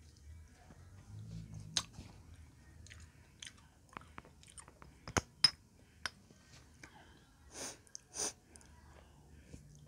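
Close-up chewing and wet mouth clicks of someone eating juicy dalandan orange segments, with scattered sharp clicks, the loudest about halfway through, and two short hissing swishes near the end.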